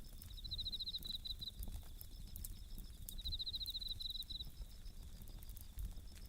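Bell crickets (suzumushi) chirping in two pulsed, ringing trills of about a second each, over a steady fainter insect chorus. Small, scattered crackles come from a wood campfire throughout.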